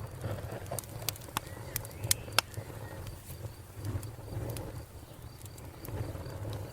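Wood fire crackling in a fireplace: irregular sharp pops, thickest in the first couple of seconds with the two loudest about two seconds in, over a low steady rumble of the flames.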